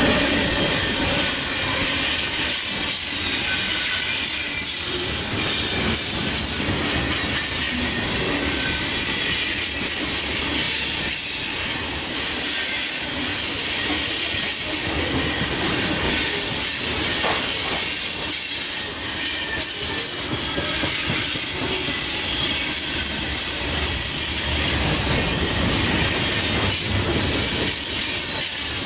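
Freight train of tank cars and covered hopper cars rolling past: a steady wheel-on-rail rumble with thin high wheel squeals coming and going and now and then a click from the wheels over the track.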